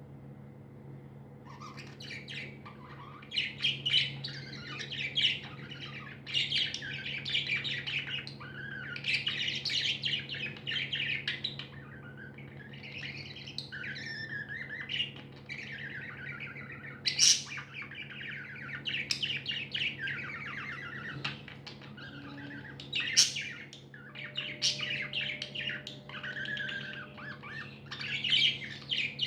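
Several pet budgerigars chattering: fast warbling chirps mixed with sharp squawks. It starts about a second and a half in and goes on with only brief pauses.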